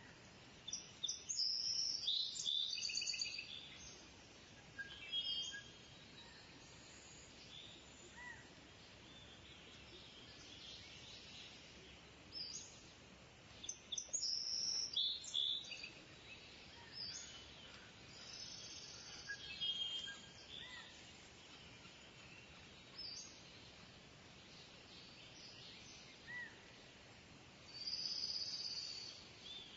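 Birds chirping and calling over a steady outdoor hiss, in scattered bursts of high calls, the loudest a few seconds in, around the middle and near the end.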